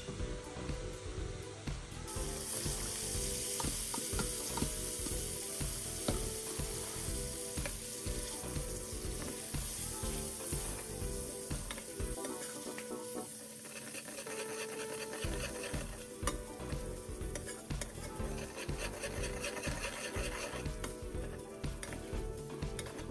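Onion, tomato and beaten egg sizzling in an aluminium pan while a metal spatula stirs and scrapes through it, with light scrapes and clicks against the pan. The sizzle grows louder about two seconds in.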